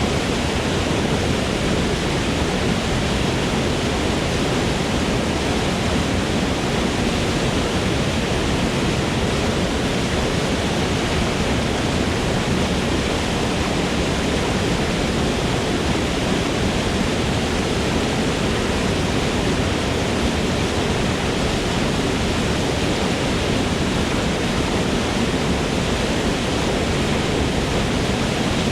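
Waterfall rushing in a forest: a steady, even roar of falling water with no breaks or changes.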